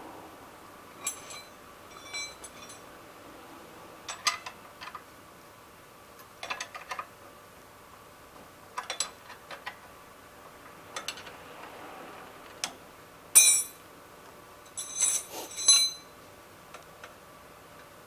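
Metal hand tools clinking and tapping against engine-bay parts in short bursts every second or two, some strikes ringing briefly, as an air-conditioning compressor is unbolted. The loudest clinks come about two-thirds of the way through.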